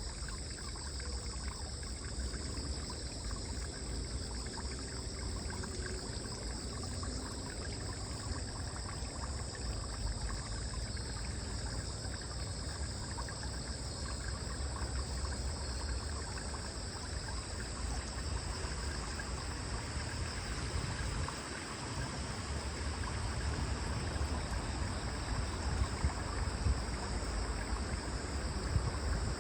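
Waterside ambience: water running and trickling, with a steady high-pitched hum over it and a low rumble beneath.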